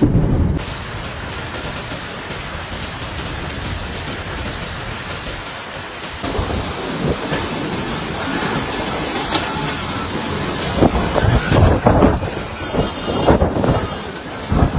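Heavy storm rain pouring down in a steady rush. About six seconds in the sound changes abruptly to rain with irregular loud thumps and gusts.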